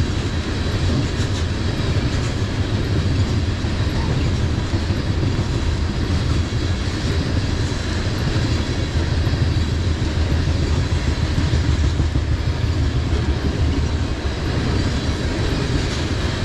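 Freight cars of a grain train rolling past: a steady, loud rumble of wheels on rail, with a faint steady high ring above it.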